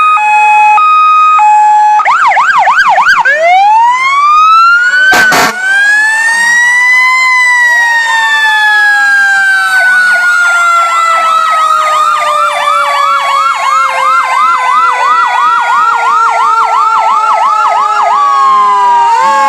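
Several emergency vehicle sirens sounding at once. They open with a two-tone hi-lo alternation, then fast yelping warbles over a slow wail that rises and then falls. A brief sharp burst of noise cuts through about five seconds in.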